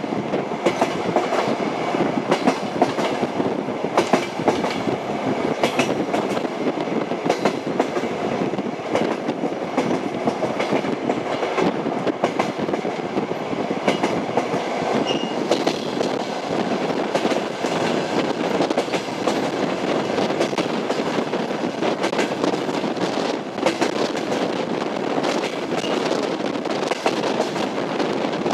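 Train wheels running on rails: a steady rumble with irregular clicks and knocks as the wheels clatter over the track.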